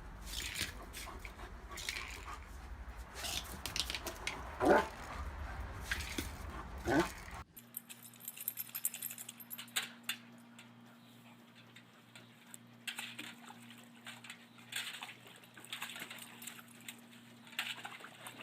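A dog giving two short pitched cries, about halfway through and again a couple of seconds later, over a low rumble. Then the sound changes abruptly to a faint steady hum with scattered light clicks.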